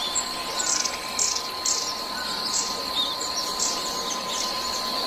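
Birds chirping in short, repeated high calls over a steady, high insect drone.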